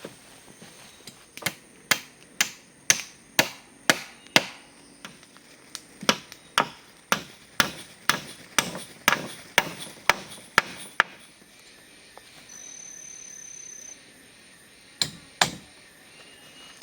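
A tool striking wood in steady blows, about two a second, in two runs of several strikes with a short break between, then a pause and two more blows near the end.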